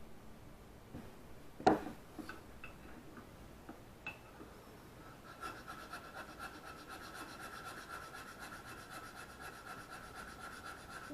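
A single sharp knock about two seconds in and a few light ticks. Then, from about five seconds in, steady back-and-forth rubbing of a Japanese plane blade against an abrasive, grinding its bevel to correct the angle and symmetry.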